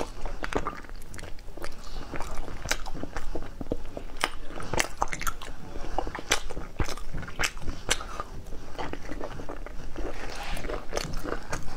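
Close-miked eating of cooked snails: wet biting and chewing of the meat, full of many short sharp clicks and crackles.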